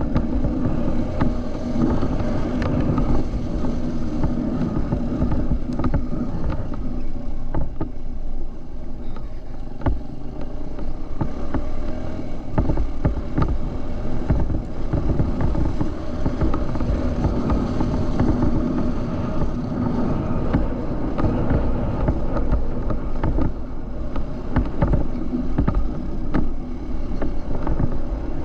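Dirt bike engine running steadily while being ridden, with scattered knocks and clatter throughout.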